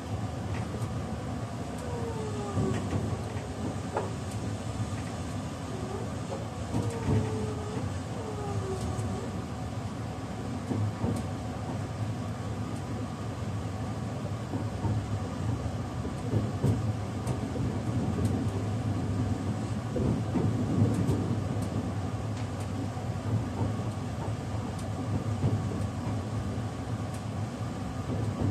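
Cabin noise inside an E653-series electric limited express car: a steady low rumble from the running gear, with a faint steady whine above it. A few short squealing glides come in the first several seconds.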